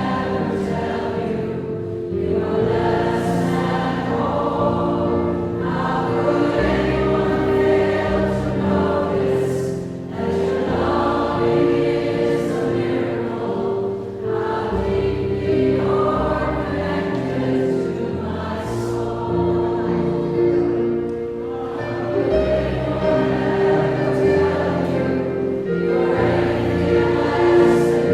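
Choral music: a choir singing held chords that change every couple of seconds.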